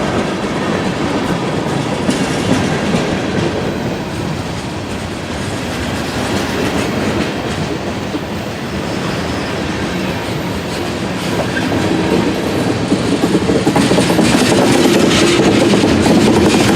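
Freight train rolling past, its wheels clattering and rumbling over the rails in a steady wash of noise that grows louder in the last few seconds.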